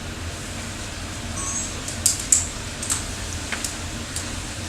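Room tone in a pause of the talk: a steady low hum, with a few faint, brief clicks or rustles scattered through the middle.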